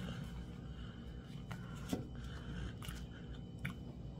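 Close-up eating sounds while chewing fufu and soup eaten by hand: soft mouth noises with a handful of short sharp clicks and smacks, about one a second.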